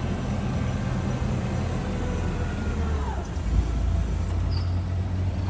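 A truck engine running with a steady low rumble. A faint gliding tone rises and falls over it and fades about three seconds in.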